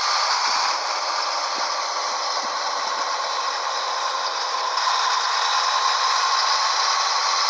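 Steady rattling noise from a 1998 Scania 113H 360 truck, with no break or change in level.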